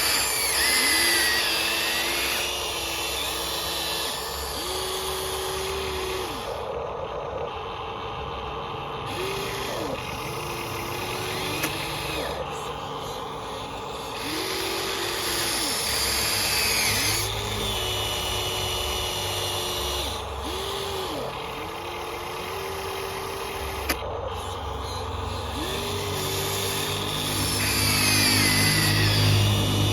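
Small electric gear motors of radio-controlled construction models whining in repeated short runs of one to two seconds, each starting and stopping, over a steady low hum that grows louder near the end.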